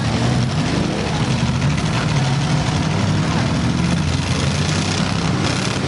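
Several six- and eight-cylinder demolition derby cars' engines running together, a loud, steady, rough mix of engine noise.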